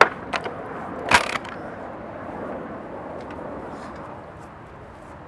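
A few sharp knocks, the loudest about a second in, then steady outdoor background noise.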